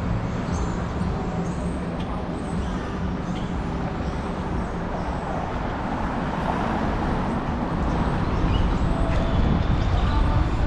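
Steady rushing noise of riding a bicycle down a city street, with traffic around, growing a little louder in the last few seconds.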